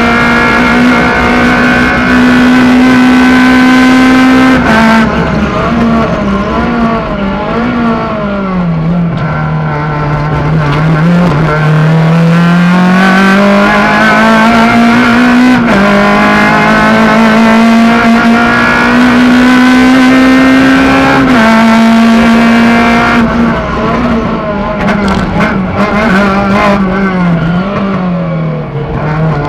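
Suzuki Swift GTi rally car's 1.3-litre four-cylinder engine at high revs, heard from inside the cabin. The revs fall and climb back several times as the driver shifts and lifts, with a long steady climb in the middle and a sharp drop after it.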